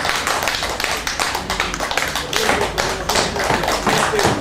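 Rapid, irregular tapping: many sharp taps a second, with a faint pitched sound coming in during the second half.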